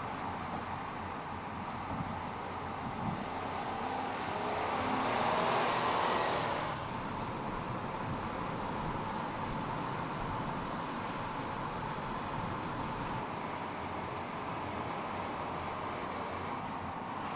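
A car driving with steady engine and road noise. It swells louder with a changing engine pitch about four to six seconds in, then falls back abruptly to a steady level.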